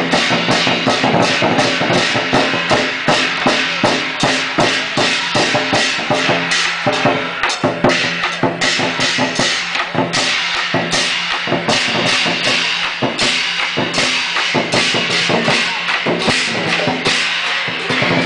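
Fast drum and percussion music, with sharp strikes several times a second over a few steady low tones.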